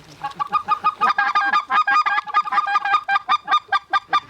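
Rapid, overlapping goose honks, about five or six a second, swelling about a second in.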